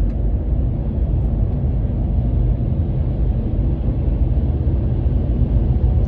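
Steady, loud low rumbling noise with no clear events in it.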